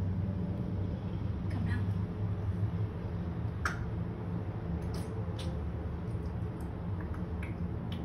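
A steady low hum of background machinery or traffic, with a few short, faint high chirps from birds scattered through it. The clearest chirp is a quick falling note about halfway through.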